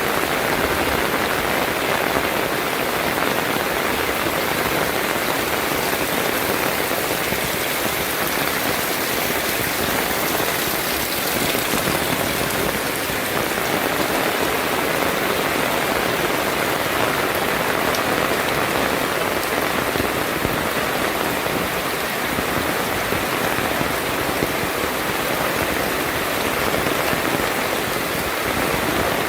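Heavy rain falling steadily on surfaces, a dense even hiss of drops with no breaks or distinct thunderclaps.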